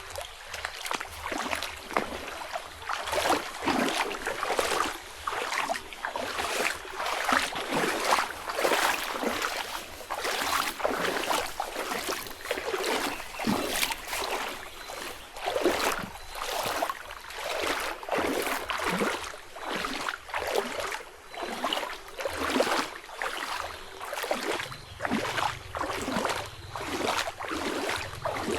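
Footsteps of someone walking on a forest path, each step a crunching rustle, at a steady walking pace of about one and a half steps a second.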